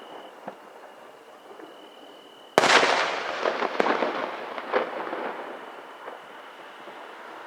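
Aerial fireworks: a sudden loud shell burst about two and a half seconds in, followed by a rapid scatter of small crackling pops that fades over several seconds.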